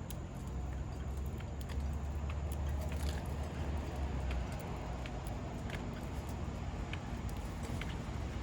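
Outdoor ambience with a steady low rumble, heaviest in the first half, and scattered faint short high clicks.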